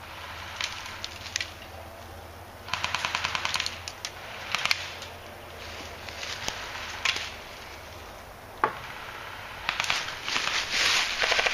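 Airsoft guns firing: scattered single shots and short rapid bursts, with a fast burst of about a dozen shots about three seconds in and another dense string of shots near the end.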